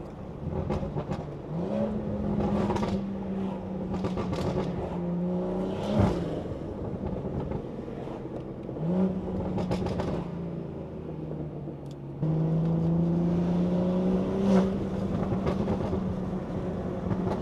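BMW 340i's turbocharged B58 straight-six, with a loud aftermarket exhaust, droning under way. Its pitch steps up and down several times as it accelerates and eases off, with a sharp crack about six seconds in. It gets louder from about twelve seconds in.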